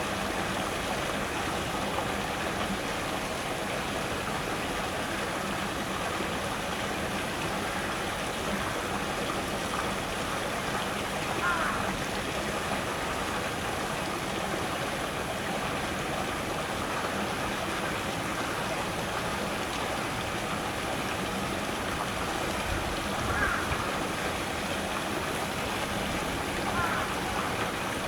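Small Japanese-garden waterfall spilling over rocks into a stream: a steady rush and splash of falling water with no pauses.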